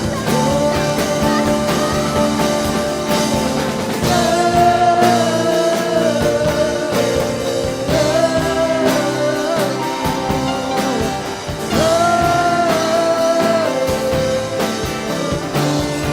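Live worship band music with a voice singing long held notes, several seconds each, over a full band accompaniment.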